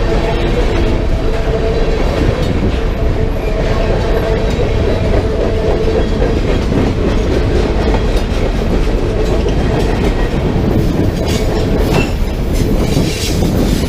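Freight train cars rolling past close by with a loud steady rumble. A steady whine from the wheels sounds through the first half, and the wheels click over the rail joints near the end.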